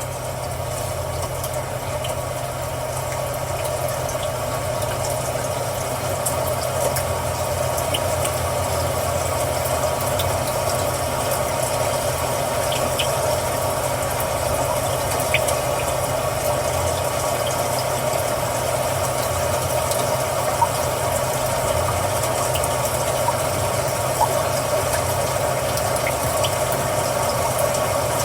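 Recorded rain ambience from the car's built-in nature-sounds feature, playing through the cabin speakers as a steady hiss. Under it is the low, steady hum of the idling engine.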